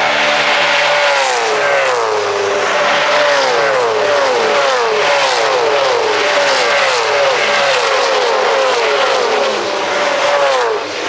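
Formula One cars passing at speed one after another, each high-revving engine note dropping in pitch as it goes by, in a continuous stream.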